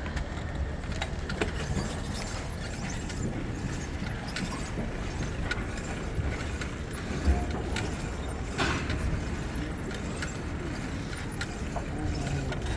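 Outdoor city street noise: a steady low rumble of traffic with scattered small clicks and rattles, one sharper click about two thirds of the way through.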